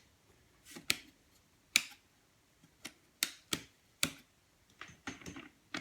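Numatic Hetty vacuum cleaner's power switch clicked on and off several times, with no motor starting: the vacuum is dead.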